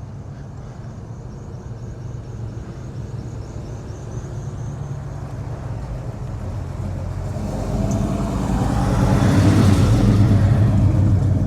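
Big-block V8 engine idling with a choppy, lopey chop typical of an aggressive cam. The rumble grows louder as the engine comes closer and is loudest about three-quarters of the way through.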